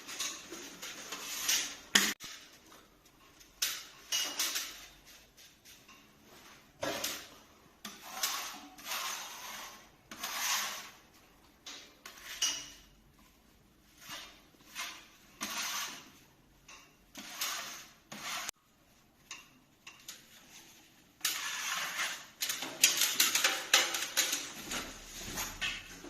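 Irregular short scrapes and clicks, with clattering bursts that come thicker near the end.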